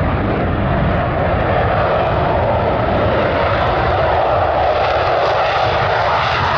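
F-16 fighter jet's engine noise, a loud steady rush with no break, its hissing middle band growing stronger about halfway through as the deep rumble eases a little.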